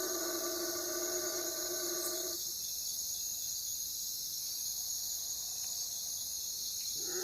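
Steady high-pitched chirring of a night insect chorus, typical of crickets. A held low call with overtones carries over from before and cuts off about two and a half seconds in.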